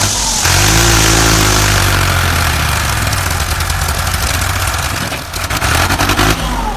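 A vehicle engine running steadily with a low, even hum and a hiss over it, breaking into a rapid rattling clatter about five seconds in.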